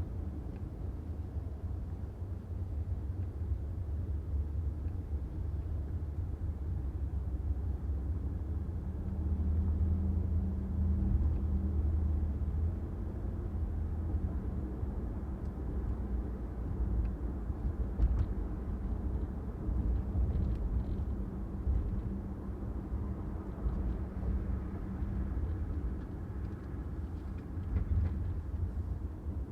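A car driving on city streets: a steady low rumble of engine and tyre noise that swells a little about ten seconds in, with one brief knock a little past the middle.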